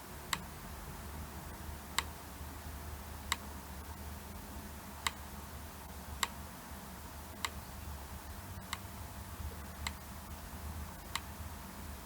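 Faint sharp clicks, about one every second and a half, over a low steady hum.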